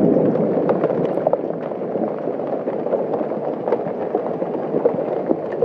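Large hailstones pelting down hard: a steady dense clatter of countless impacts, with many sharper individual cracks standing out.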